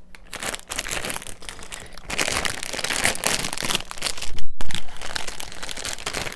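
Plastic bread wrapper crinkling and crackling as it is handled and peeled open, loudest about four and a half seconds in.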